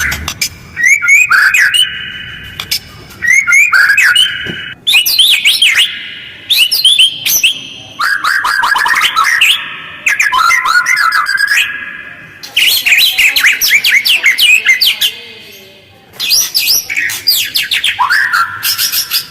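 White-rumped shama (murai batu) singing in rough, fast phrases of quick sliding and chattering notes, with short pauses between phrases. This is a lure song, meant to set other shamas singing.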